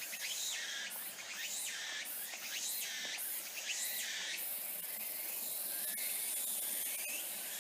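Insects calling in a forest: a high-pitched pulsing call repeating about twice a second for the first few seconds, then a steady high hiss of insect sound.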